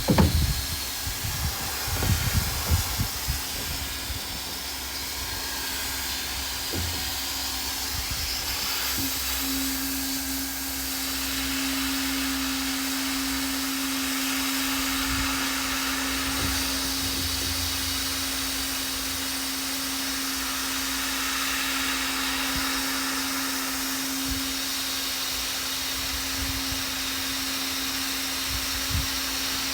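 Hot-air plastic welding gun's blower running steadily: an airy hiss with a steady hum that grows stronger about ten seconds in. A few light knocks sound in the first few seconds.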